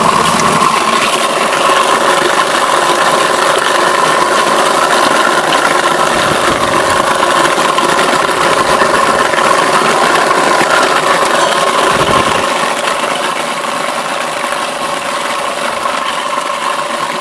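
Homemade apple crusher driven by an old Zarya 2M washing-machine motor, running steadily with a hum and a rattling grind as it chops apples. The sound drops a little about twelve seconds in.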